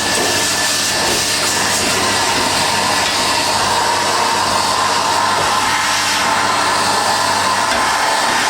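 Numatic Hetty vacuum cleaner running steadily, its hose drawing air and fluff.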